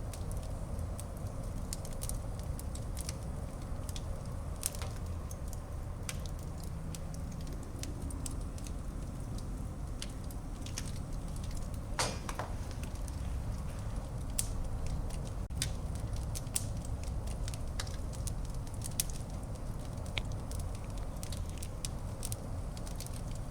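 Wood fire burning in a fireplace: a steady low rumble of flames under scattered crackles and pops, with one louder pop about twelve seconds in.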